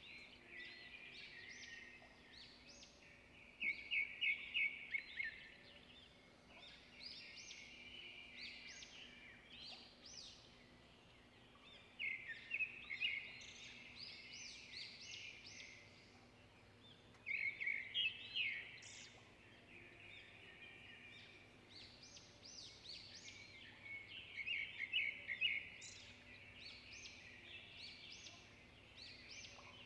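Small birds chirping and twittering in bursts that recur every few seconds, over a faint steady hum.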